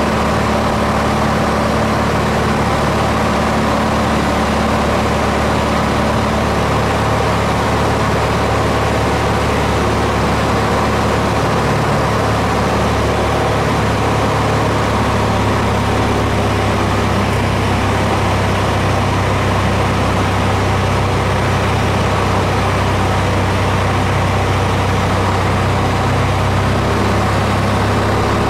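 Steady engine drone heard inside a light aircraft's cabin, loud and unchanging, with a low hum under an even rushing noise.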